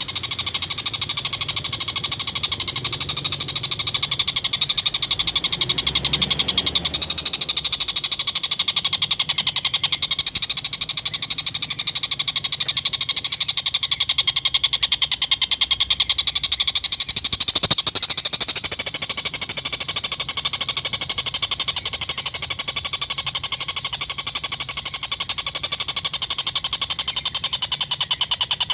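Tengkek buto kingfisher giving its 'ngekek' call without a break: a fast, rattling chatter of rapidly repeated high notes.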